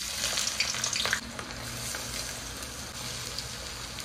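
Chicken sizzling as it fries in a pan, being stirred for chicken kosha, with a couple of sharp scrapes of the spatula about a second in.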